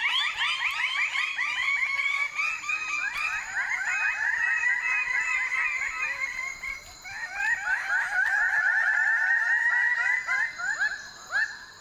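A chorus of male lesser birds of paradise giving their display calls: many rapid, loud, overlapping notes, eased briefly about seven seconds in and then resumed. This is the excited calling of displaying males at their lek as the hens arrive.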